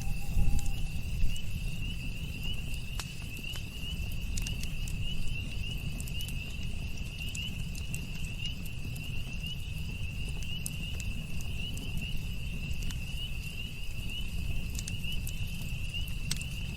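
Campfire burning with scattered crackles and pops over a low rumble, a couple of louder pops in the first second or so. A steady high-pitched chorus of night insects pulses throughout.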